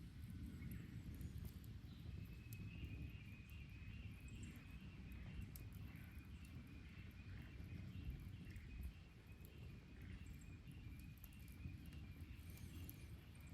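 Wood bonfire crackling faintly, with scattered sharp pops over a low steady rumble. A faint repeated chirping runs through most of it.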